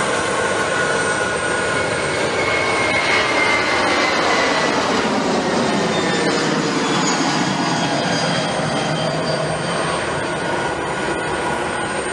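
Airbus A330-200 jet engines running loud, a steady roar with a whine that glides slowly down in pitch.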